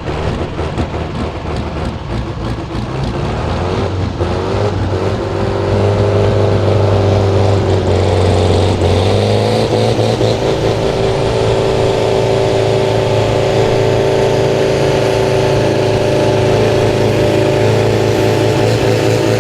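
Pulling tractor's engine running flat out under full load as it drags the weight-transfer sled down the track. It builds over the first several seconds, shifts in pitch about nine seconds in, then holds at a steady, loud pitch.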